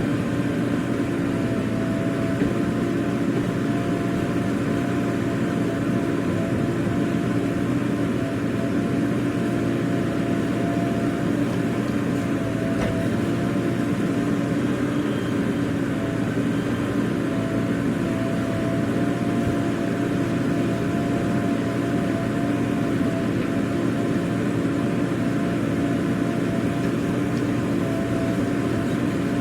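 Heavy diesel engine running steadily at a constant speed, its even hum holding one pitch without revving up or down.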